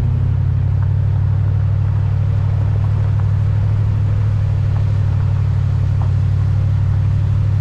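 Car or truck engine and road noise: a steady low drone that holds even throughout.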